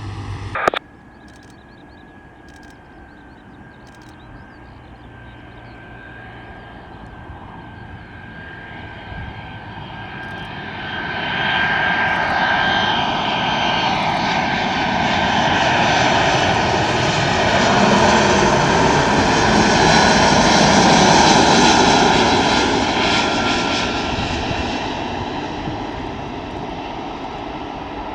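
Jet airliner's engines building slowly from a faint whine to a loud rush with a steady whining tone as the aircraft approaches and passes, loudest about two-thirds of the way through, then fading.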